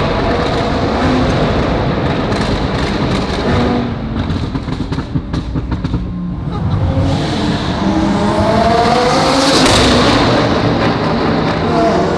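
Modified Lamborghini Huracán's V10 revving hard through a tunnel. About four seconds in the throttle is lifted and the exhaust crackles and pops for a couple of seconds, then the engine revs up again and passes with a high whine.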